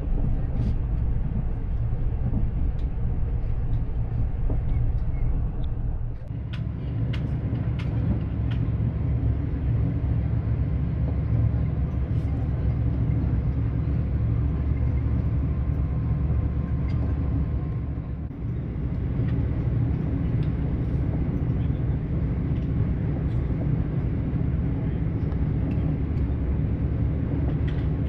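Passenger train running at speed, heard from inside the carriage: a steady low rumble with a few faint clicks and rattles, briefly easing twice.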